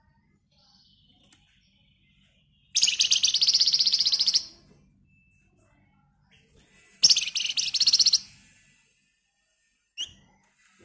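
Flamboyan (wergan Jawa, Javan fulvetta) singing: two long, dense, fast rattling trills, each lasting more than a second, with a few faint short notes before them and a brief sharp note near the end.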